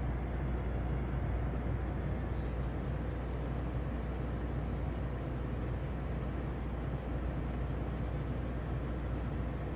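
Steady low hum with an even rush of moving air from running grow-room equipment, unchanging throughout.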